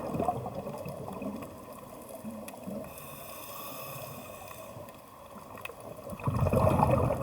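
Ocean soundscape of moving, gurgling water with scattered sharp clicks, swelling louder about six seconds in.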